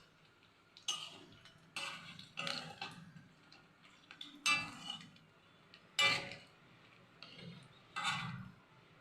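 Metal spatula knocking and scraping against a kadai as whole spices and dried red chillies are stirred in hot oil: about seven irregular clinks, each ringing briefly.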